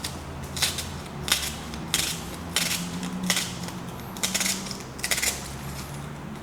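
Kitchen knife slicing an onion into thin slices on a cutting board: a crisp cut about every two-thirds of a second, with a quick pair of cuts near the end.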